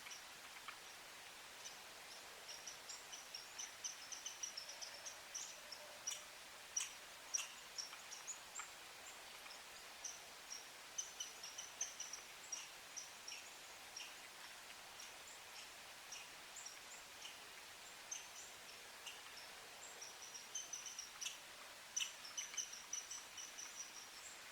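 Faint, high-pitched bird chirps and twitters in quick runs, with a few sharp taps mixed in.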